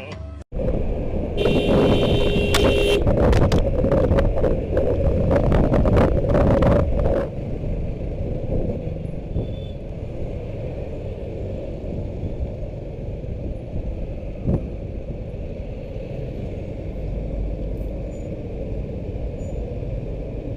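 Motorcycle riding through traffic: heavy wind buffeting and engine noise for the first several seconds, with a vehicle horn sounding for about a second and a half near the start. After that the noise settles to a steadier, quieter road sound.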